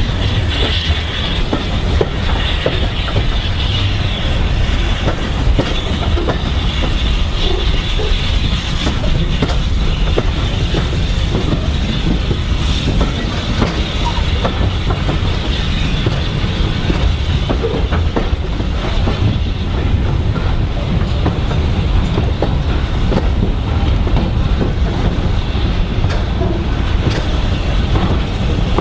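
Passenger coaches of a steam-hauled heritage train running along curved track, heard from on board: a steady rolling rumble with the clickety-clack of the wheels over the rail joints.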